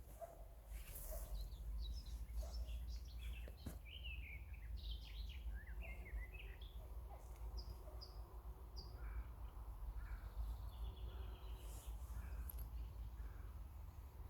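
Wild birds chirping and singing in quick, varied phrases of short high notes, busiest in the first half, over a steady low rumble.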